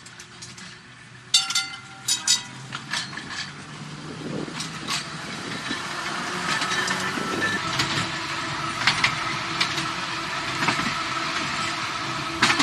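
Narrow-gauge electric tram running along its track, the rolling noise building up over the first few seconds with a steady whine and scattered clicks and knocks from the wheels and rails. A few sharp knocks come about a second in.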